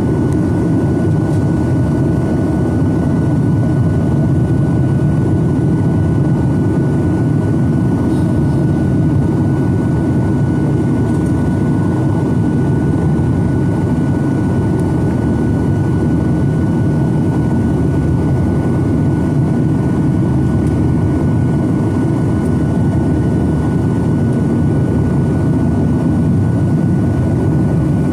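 Boeing 737-900ER's CFM56-7B jet engines and airflow heard from inside the passenger cabin. A loud, steady roar runs under a thin, constant whine.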